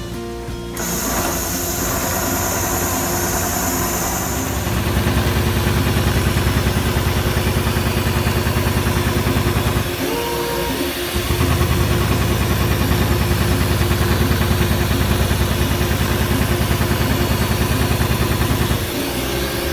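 Richpeace automatic industrial sewing machine running at speed, a fast even chatter of needle strokes over a motor hum. It stops briefly about ten seconds in, then starts again and runs until just before the end.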